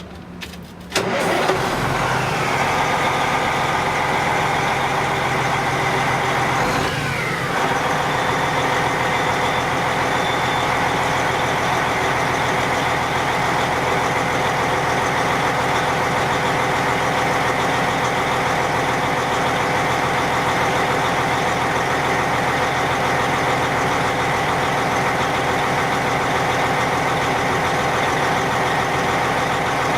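A vehicle engine starting about a second in, then running steadily at idle, with a brief falling sweep in pitch about seven seconds in.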